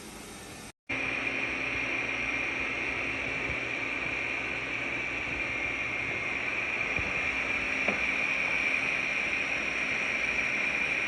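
Roborock Qrevo Curv robot vacuum system running with a steady high whirring whine, starting suddenly less than a second in.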